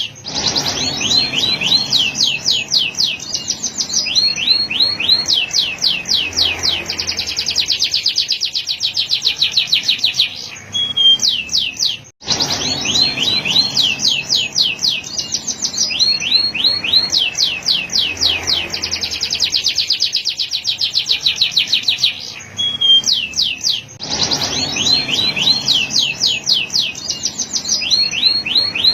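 Male canary singing a continuous song of fast trills, each made of quickly repeated high notes, with short pauses between phrases. The same roughly twelve-second stretch of song repeats, with a sharp cut between repeats.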